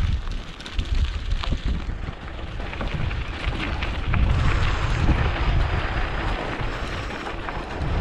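Mountain bike rolling down a rough dirt road, with wind buffeting the microphone and short knocks and rattles from the bike over the rough surface.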